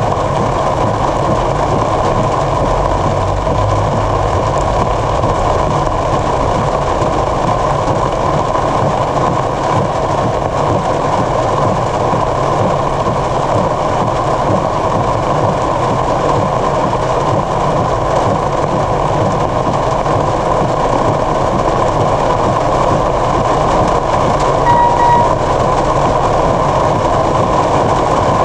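Heavy downpour falling on a car's roof and windshield, a loud steady rush heard from inside the cabin. A short beep sounds near the end.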